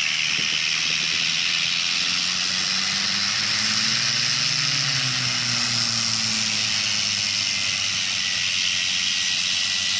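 Beechcraft Duke's piston engines running under a loud, steady hiss, the engine note rising and falling slightly about halfway through.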